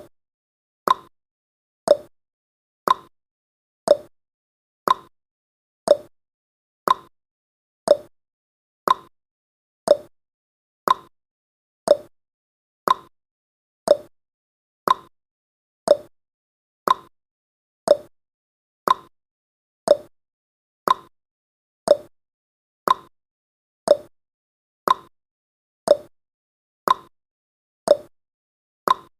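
Clock tick-tock sound effect marking the seconds of a countdown timer: one sharp click each second, alternating between a higher and a lower click, with silence between.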